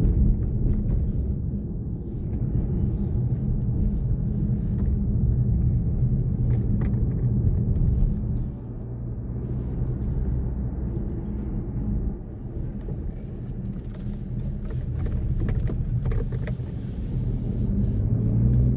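Car running, heard from inside the cabin as a steady low rumble, with a few faint clicks and knocks.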